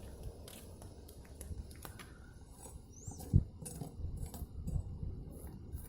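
Quiet, scattered light clicks and taps of hand work, with one dull thump about three and a half seconds in and a short high chirp just before it.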